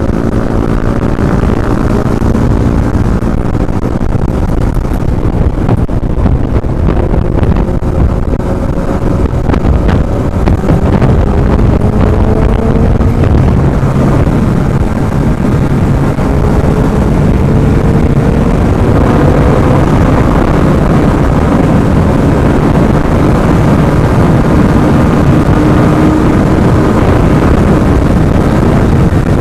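Yamaha R15M's 155 cc single-cylinder engine pulling at speed, its pitch climbing slowly and dipping once about halfway through, with heavy wind rumble on the microphone.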